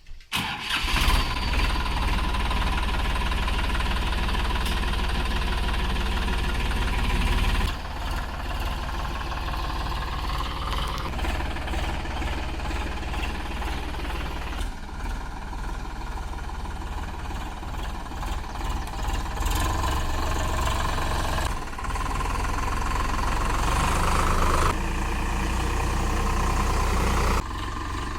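Diesel engine of farm machinery running steadily with a deep rumble; its level and tone change abruptly several times.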